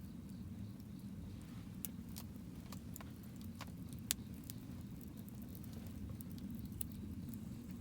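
Wood campfire crackling: irregular sharp pops and snaps from the burning wood over a steady low rumble, with one louder pop about four seconds in.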